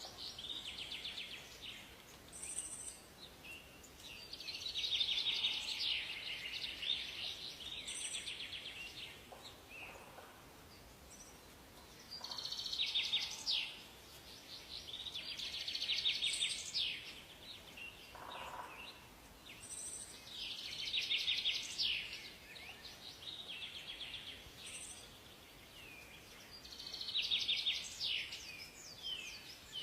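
Songbirds singing in a forest: rapid trilling phrases of a couple of seconds each, coming every few seconds, with brief high chirps between them over a faint steady background hiss.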